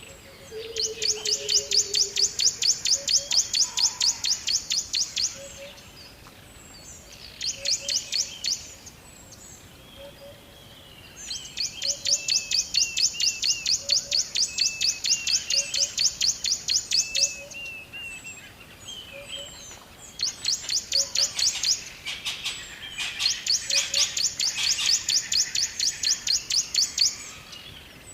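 Birds chirping in rapid trains of high, evenly repeated notes, each train lasting a few seconds, with short pauses between. A soft low note repeats at a steady pace underneath.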